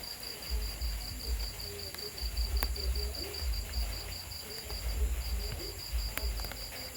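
Night insects making a steady, high, rapidly pulsing trill, with fainter steady high tones above it. Low rumbles come and go in gusts underneath.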